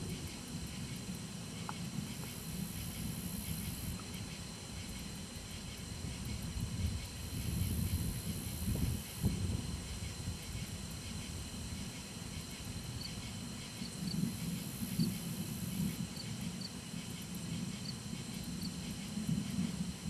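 Distant thunder rumbling low and long, swelling twice, over a steady high hiss.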